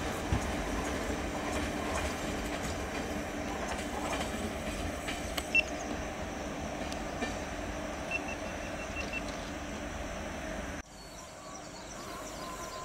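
Passenger train coaches rolling away over the rails: a steady rumble that slowly fades, with one sharp click a little past the middle. About eleven seconds in the sound drops suddenly to a much quieter background.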